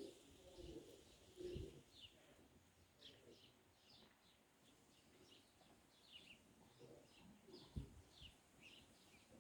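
Faint, quick chirps of small birds, short high notes repeated many times, with two soft low thumps about one and a half seconds and eight seconds in.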